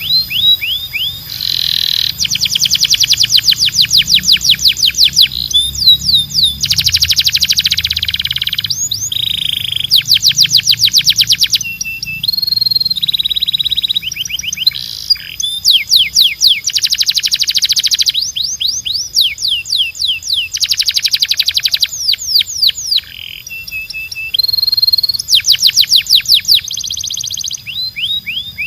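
Canary singing a continuous song of rapid trills: each phrase is one note repeated many times a second for one to two seconds, then switches to another. Some phrases are sweeping whistled notes, some are dense buzzy rolls, and a few are short steady whistles.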